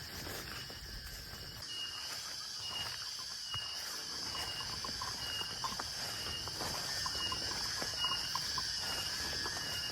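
Forest insects droning steadily on one high note, with a short high chirp repeating about twice a second from about two seconds in.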